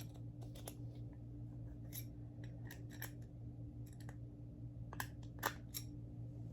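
Scattered light clicks and taps of tools working at a stuck part of a Hoover Convertible upright vacuum during disassembly, over a steady low hum.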